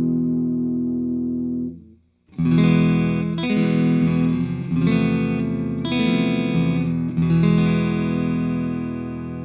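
Patrick James Eggle Oz T acoustic guitar played in chords: a chord rings and fades, stops briefly about two seconds in, then fresh chords follow, changing about once a second, the last one left to ring out.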